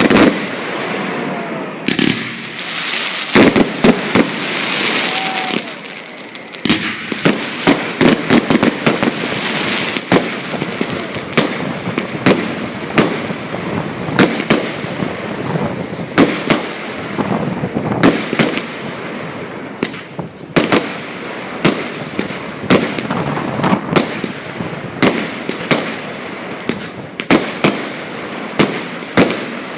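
Fireworks going off: many loud bangs in quick, irregular succession over a continuous crackle.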